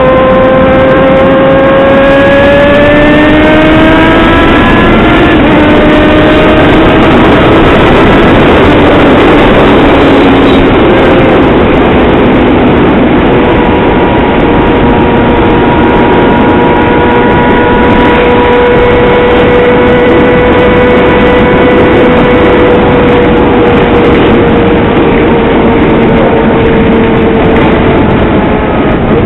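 Yamaha XJ6 motorcycle's inline-four engine running under way, loud. Its note climbs in pitch over the first few seconds as it accelerates, then settles into a steady cruising tone that eases slightly lower near the end.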